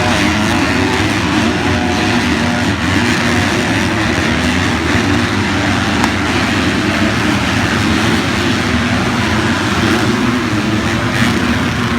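Motocross motorcycle engines running hard, their pitch rising and falling with the throttle, over a constant rushing noise.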